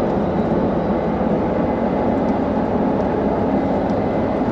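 Combine harvester's engine and machinery running steadily, heard from inside the cab.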